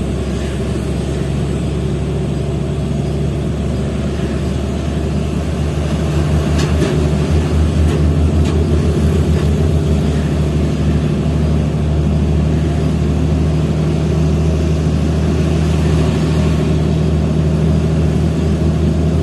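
Diesel engine of a Hino FL 260 JT truck running steadily under a heavy load of about 33 tonnes of coal. It gets louder about six seconds in, then holds at that level.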